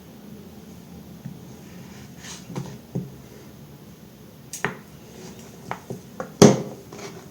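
A knife cutting through multicoloured soap: a string of irregular crisp cracks and snaps, the loudest about six and a half seconds in.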